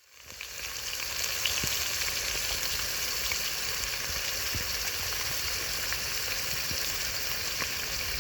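Mayonnaise-coated meat sizzling as it fries in a pan, a steady hiss with small crackles that fades in over the first second.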